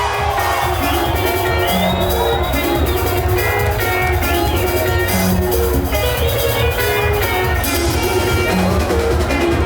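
Live band music playing continuously at a steady, loud level, with a strong bass line under a high melodic line.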